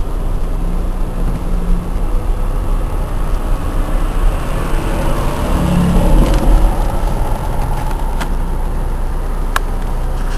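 Car engine and road noise heard from inside the cabin while driving, a steady low rumble that swells louder around the middle. Two sharp clicks come near the end.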